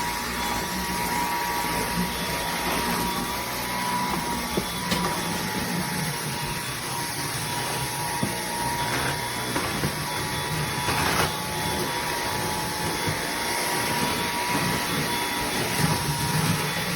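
Eureka cordless vacuum cleaner running steadily, a constant motor whine over airflow hiss, with a few small clicks and knocks.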